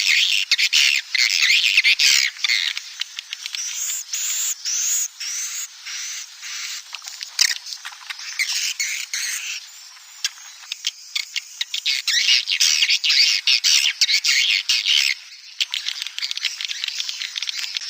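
Recorded swiftlet lure call: a dense colony chorus of high twittering chirps and quick falling squeaks, mixed with many short clicks, continuing without a break. Such playback is used to attract swiftlets to nest.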